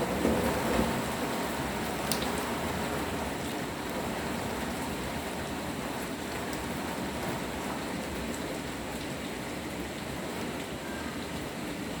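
Steady rain falling, an even hiss with scattered drop ticks, slightly heavier in the first second.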